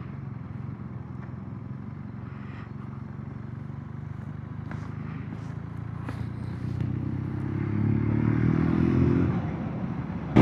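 Motorcycle engine running along at a steady cruise, then pulling harder for a few seconds with its note building louder, before easing off near the end.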